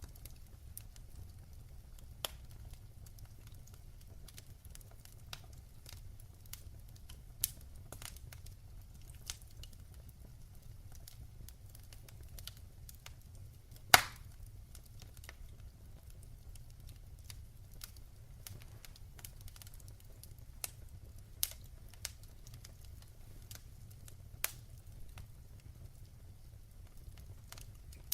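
Fireplace fire crackling: a low steady rumble with scattered sharp pops, one much louder pop about halfway through.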